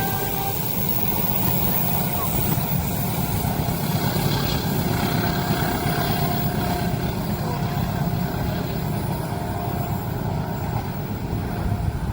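Train running past a level crossing: a steady low rumble with no pauses.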